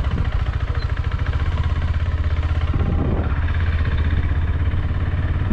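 Motorcycle engine idling steadily, a low even pulsing with no revving.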